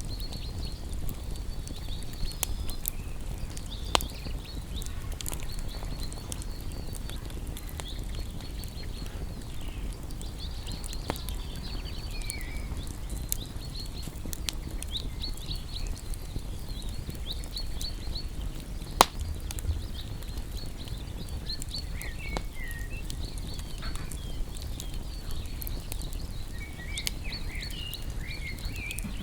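Wood campfire burning with scattered sharp crackles and pops, the loudest about four seconds and nineteen seconds in, over a low steady rumble. Rapid high chirping calls run throughout, with a few short bird-like calls near the middle and end.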